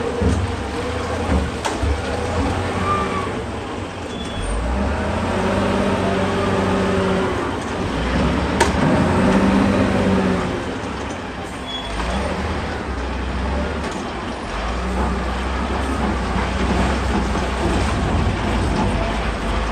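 Excavator's diesel engine running under load with its hydraulics working, the engine pitch rising and falling twice as the machine works. A single sharp knock sounds about midway.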